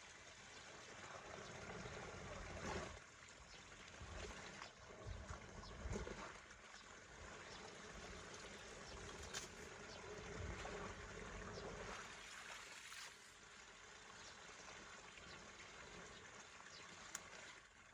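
Water trickling and running, faint and steady, with a few small knocks.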